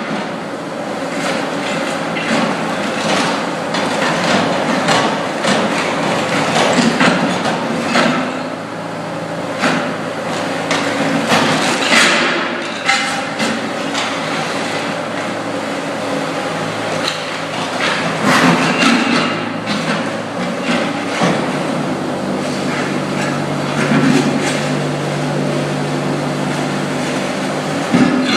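Bobcat 185 skid steer's diesel engine running under a floor scraper blade that chips ceramic tile off a concrete floor, giving many sharp cracks and clatters of breaking tile over the engine's steady drone.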